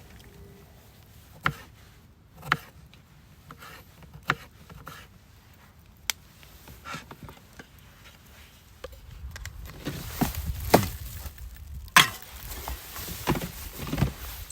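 Firewood being chopped and handled: irregular, sharp wooden knocks and cracks, a few spaced ones at first, then a quicker run of louder ones in the last few seconds.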